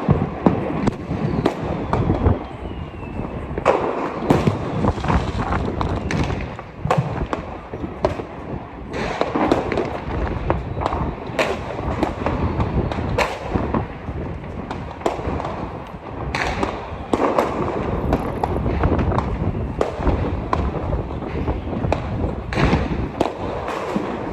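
Fireworks and firecrackers going off in a dense, irregular string of bangs and crackling, with several louder reports scattered through.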